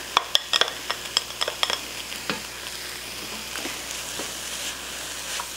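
Chopped jalapeño and serrano peppers scraped off a dish into a hot pot of shredded turkey and onions, a spatula tapping and scraping in quick clicks for the first two seconds. Under it, and through the stirring that follows, the pan sizzles steadily.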